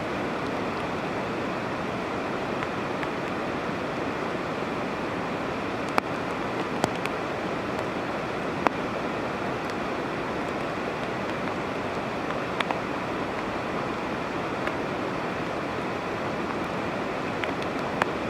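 Steady rushing of water, with a few sharp taps scattered through it.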